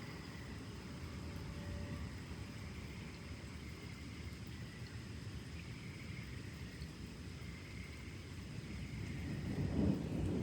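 Storm night ambience: a steady low outdoor rumble, with insects trilling at steady high pitches. About nine and a half seconds in, a thunder rumble begins to swell.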